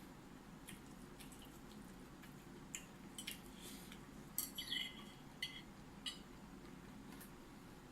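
Eating sounds: a scattering of short, crisp clicks and crunches, bunched together about halfway through, over a faint steady low hum.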